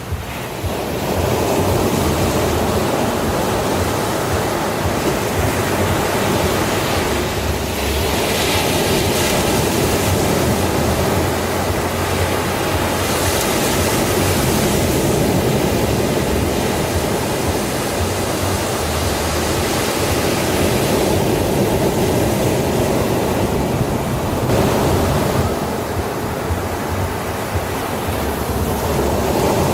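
Sea waves washing on a beach: a steady rush of surf that swells and eases as waves break and run up.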